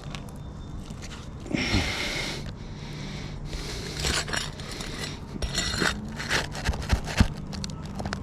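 Roof shingles being worked loose by hand: scraping, crackling and a string of small clicks and knocks in the second half. A heavy breath close to the microphone about one and a half seconds in.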